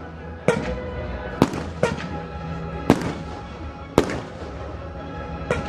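Fireworks bursting in a display: five sharp bangs spaced roughly a second apart, then a quick run of rapid bangs starting near the end. Background music plays underneath.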